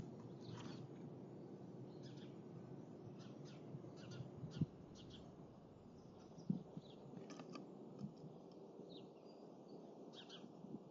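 Short, high chirps and call notes from small songbirds, scattered through, over a faint steady low background noise. Two soft thumps come about four and a half and six and a half seconds in.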